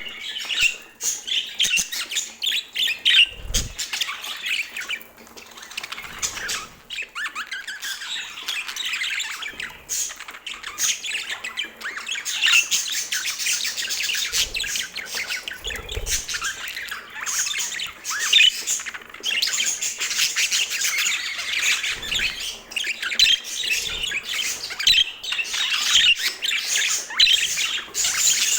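Budgerigar chatter: a steady run of quick warbling chirps, squawks and clicks, with a few soft low thumps.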